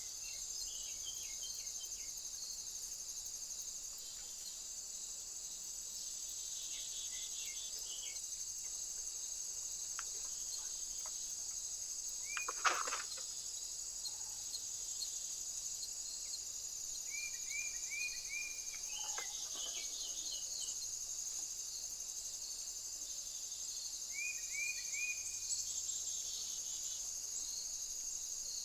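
Steady high chirring of crickets, with several short runs of quick bird chirps, three to five notes each. A single sharp tap about halfway through is the loudest sound.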